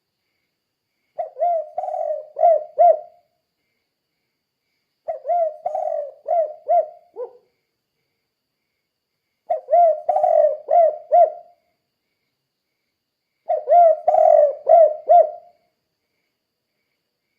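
Spotted dove (tekukur) cooing: four phrases, each a run of about five low, rounded coo notes lasting about two seconds, with pauses of roughly two seconds between them.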